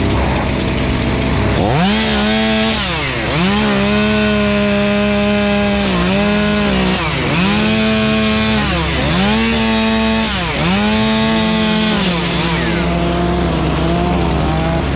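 Two-stroke chainsaw revved up to full throttle about two seconds in and held there for roughly ten seconds, with several brief dips in speed, as in sawing through wood, before dropping back to a lower speed near the end. A steady low engine drone runs underneath.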